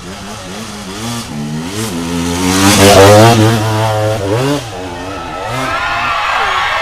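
Motorcycle engine revving hard as a rider climbs a steep hill, the pitch wavering up and down. It grows to its loudest about three seconds in, then eases off sharply at about four and a half seconds.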